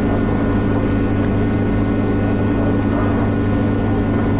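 Helicopter engine and rotor running steadily, a constant droning hum heard from inside the cabin.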